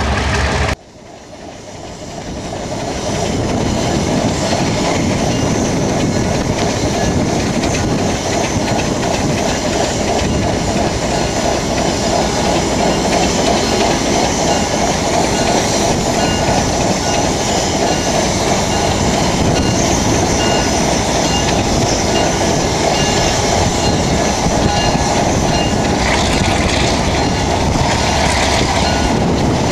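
Salem and Hillsborough dinner train, led by engine 1754, rolling on the rails: a steady rumble of wheels on track with the clickety-clack of wheels over rail joints. The sound breaks off suddenly about a second in and builds back up over the next few seconds.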